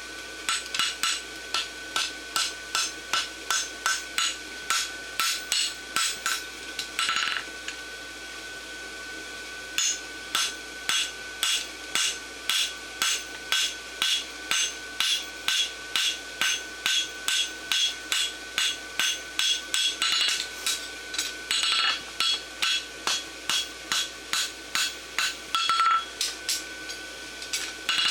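Hand hammer striking hot steel bar stock on an anvil in a steady run of blows, about two to three a second, squaring off the bar for a barshoe. The blows stop for about two seconds near the end of the first third, then resume.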